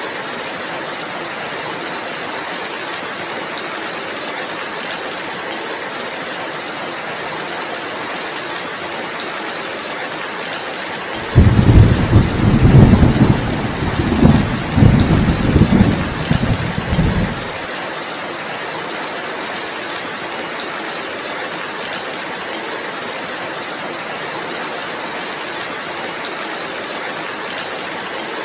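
Steady heavy rain falling, with a loud, low rolling rumble of thunder that comes in suddenly about a third of the way through, surges a few times over about six seconds, and cuts off abruptly.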